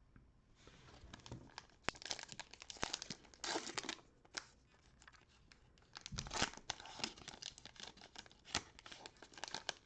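Cellophane wrapper of a Panini Prizm basketball card cello pack being torn open and crinkled by hand, in a run of sharp crackles with two louder spells.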